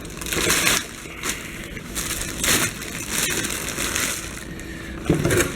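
Packaging being handled while the chainsaw is unboxed: irregular crinkling and rustling bursts of cardboard and plastic wrap.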